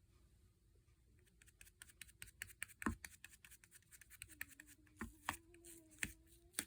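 Slime being squeezed and kneaded by hand: a faint, dense run of small clicks and pops starting about a second in, with a few louder pops near the end. A faint steady hum sounds under the second half.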